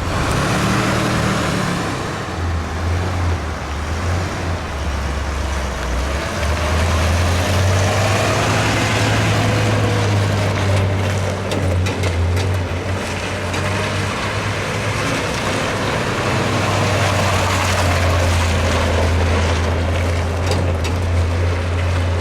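A 1982 Chevrolet C30 one-ton truck's 5.7-litre small-block V8 running, its low engine note stepping up and down in pitch a few times.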